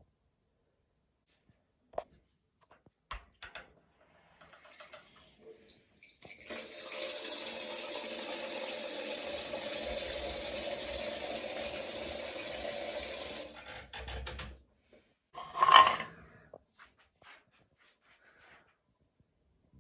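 Water running from a shower tap for about seven seconds, starting and stopping abruptly, with a few light clicks before it. A short loud sound comes about two seconds after the water stops.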